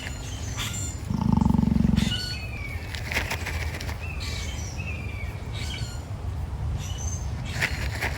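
Emu giving one deep, low call lasting about a second, about a second in. Small birds chirp in the background.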